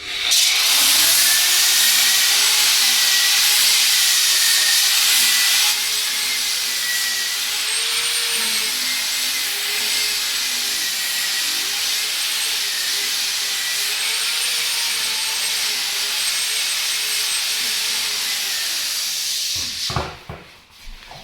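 Floor edging sander starting up and running, sanding the last of the old surface off the floor boards along the wall edges. Its motor whine wavers up and down as it is worked, drops a little after about six seconds, and the machine cuts off near the end.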